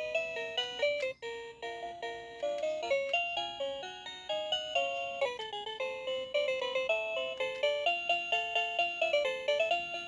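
Electronic tune from a children's duck-shaped toy organ: a simple beeping melody of short stepped notes, with a brief break about a second in.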